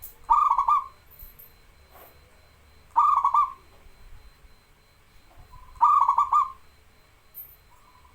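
Zebra dove (perkutut) cooing: three short rippling phrases of quick notes, about three seconds apart.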